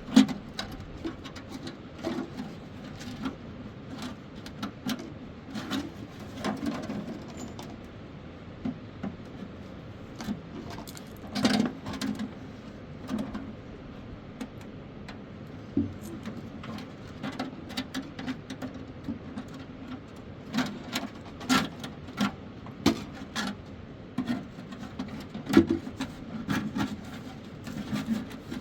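Irregular knocks, taps and clatters, a few every second or two, over a steady background noise.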